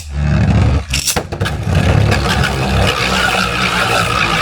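Two Beyblades, Naked Diabolos and a 3D-printed Mystic Ultraus, launched into a plastic stadium with a few sharp clacks about a second in, then spinning and grinding against the floor and each other with a slightly falling whine.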